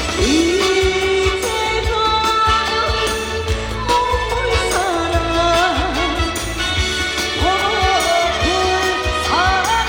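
A woman singing a trot song over backing music with a steady beat, her voice sliding and wavering between held notes.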